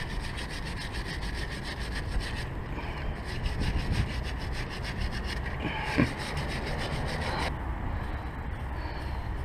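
Rapid, even scraping or rubbing, several strokes a second, over a low steady rumble, with a single knock about six seconds in.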